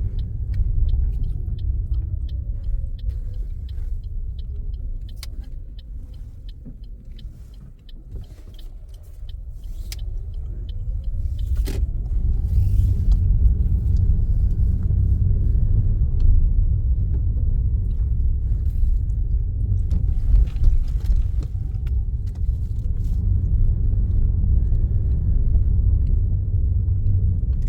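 Car driving on the road, with steady low engine and road rumble. The sound dies down about eight seconds in, then builds again and stays louder, with faint rising and falling engine pitch.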